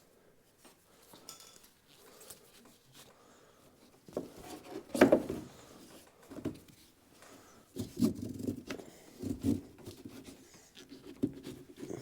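Scattered knocks, clunks and rustling of hands working tools and parts under a vehicle. Faint at first, with the loudest knock about five seconds in and a cluster of knocks a few seconds later.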